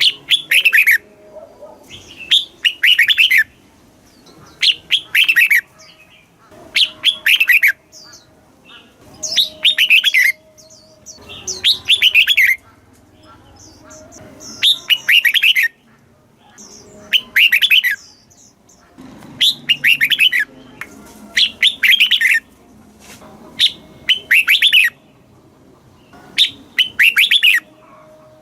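Red-whiskered bulbul singing: a short phrase of several quick notes, repeated about every two to three seconds, a dozen times over.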